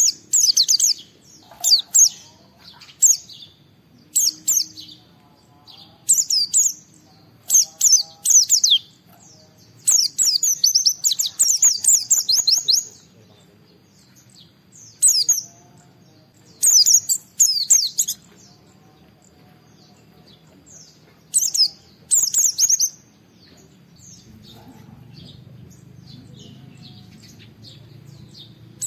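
White-eye (pleci) singing in bouts of rapid, high-pitched twittering a second or two long, the longest about three seconds, separated by short pauses. In the last few seconds only scattered faint chirps remain over a faint low hum.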